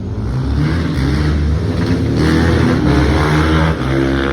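A car's engine revving hard as it accelerates, its pitch stepping up and down, with a short drop in level near the end.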